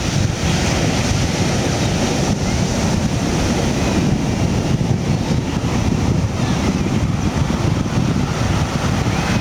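Steady, loud rush of wind buffeting the microphone, with a few faint bird chirps above it.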